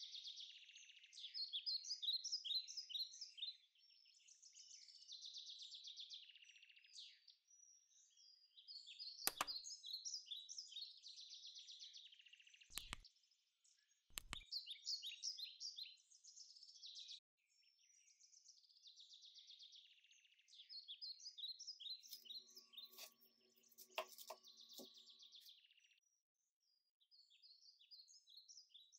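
Small birds chirping and twittering in quick high trills, repeated in phrases of a few seconds, faint throughout. A few sharp clicks stand out about nine, thirteen and fourteen seconds in.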